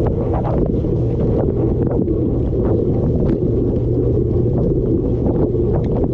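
Running dishwasher heard from inside the tub: water sprayed from the spray arms splashing over the dishes and the camera. It makes a loud, steady, low churning with irregular sharper splashes on top.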